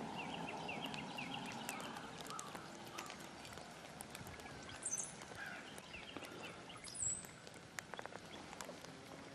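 Quiet outdoor ambience with a small bird chirping: a quick run of about ten short, high notes in the first two seconds, then two thin higher calls about five and seven seconds in. Faint scattered ticks and a soft hiss sit underneath, with light rain falling.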